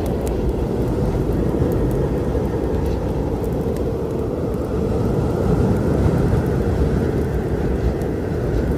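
Steady low storm rumble of wind and distant thunder, with a few faint crackles from a wood fire.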